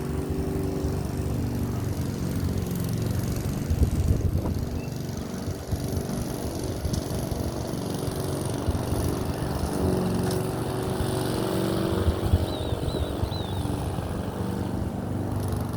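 Lawn mower engine running steadily, with a couple of louder knocks about four and twelve seconds in.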